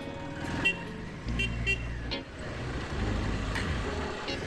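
Motorcycle engine running under way, its low drone growing stronger a little over a second in, with a few short high-pitched blips over it.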